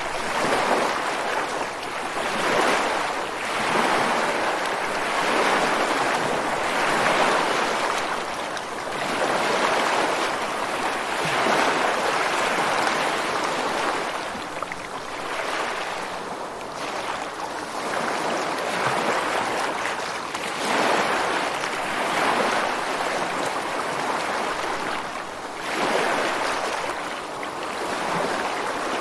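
Ocean surf breaking against rocks on the shore: a continuous rush of water that swells with each incoming wave every two to three seconds and eases between them.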